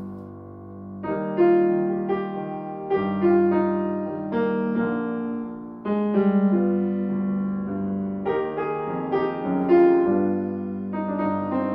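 Piano accompaniment playing alone between sung phrases: a series of struck chords and melody notes over a held low note, growing louder about a second in.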